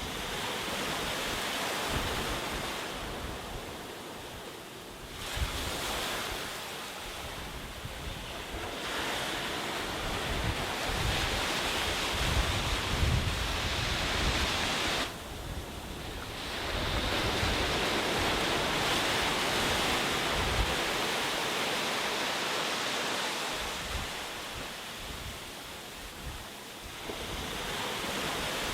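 Sea waves breaking and washing up the beach in slow surges several seconds apart, with wind rumbling on the microphone.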